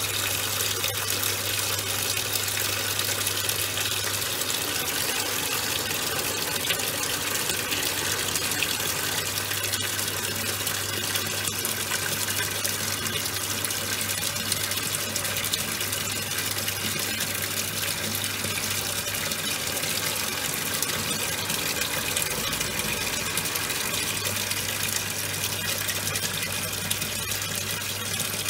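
Top-loading washing machine running with towels inside: a steady rush of water churning in the tub over a low, steady motor hum.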